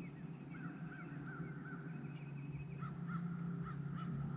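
Birds calling in runs of short, quickly repeated notes over a steady low hum.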